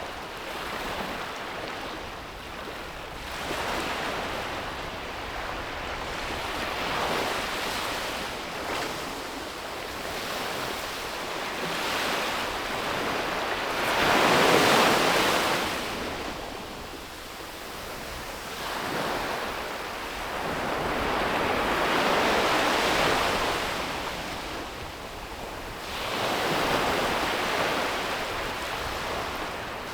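Ocean waves breaking and washing up on a beach, one surge after another every few seconds, the loudest about halfway through, with some wind on the microphone.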